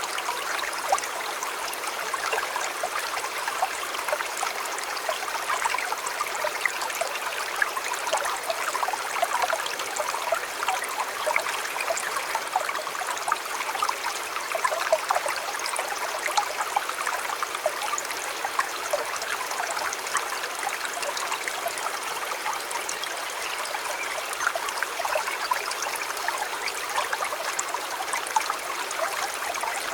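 A small river or stream flowing and babbling over stones, a steady run of water with many small splashes and gurgles.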